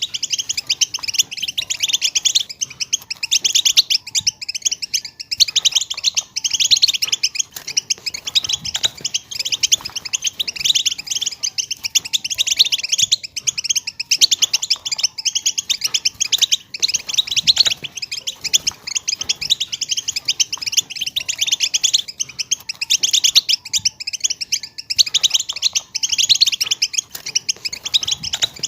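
European goldfinch twittering and chattering: a fast, unbroken stream of high chirps, trills and thin 'tsi' notes, the kind of chatter used to coax silent goldfinches into song.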